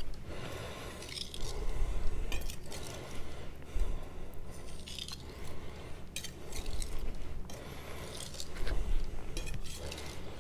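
AEB-L stainless steel knife blade scraping across a sharpening stone in repeated strokes, about one a second, as the burr is worked off with edge-leading strokes.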